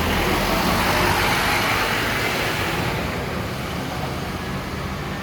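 Scania K230UB city bus running along the road: a steady low engine rumble under tyre and road noise, with a hiss that swells about a second in and then eases.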